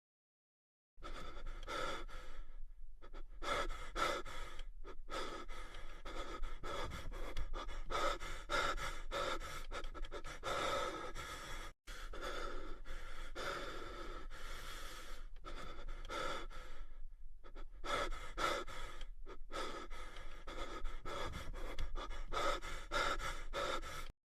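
Heavy panting meme sound effect: a long run of quick, loud breaths. It starts about a second in and drops out for an instant about halfway through.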